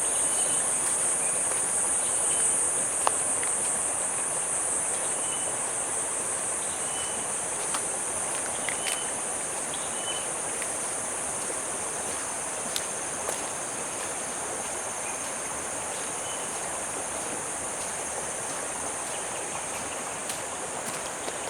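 Steady, high-pitched insect chorus over a soft, even background hiss, with a few faint short chirps scattered through it.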